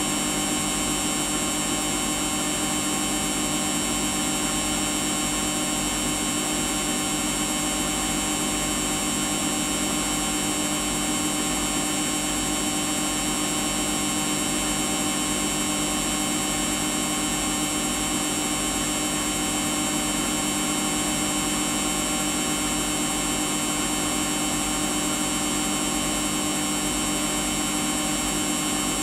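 Samsung washing machine running steadily through its Daily wash 40 programme: an unchanging motor whine made of several steady tones over a low rumble.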